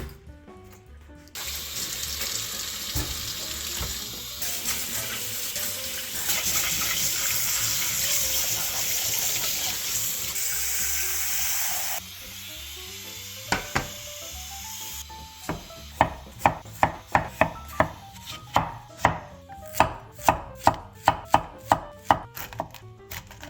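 Tap water running into a kitchen sink for about ten seconds, then, after a pause, a knife chopping vegetables on a cutting board in quick even strokes, two to three a second.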